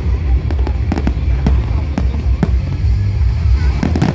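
Fireworks going off in irregular pops and bangs, with a cluster of louder bangs near the end, over music playing throughout.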